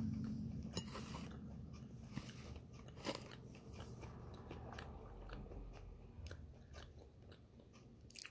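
Close-up eating sounds of a person biting into and chewing a seeded bagel half topped with chickpea salad. A scatter of small crunches and mouth clicks runs through it, the loudest about one and three seconds in.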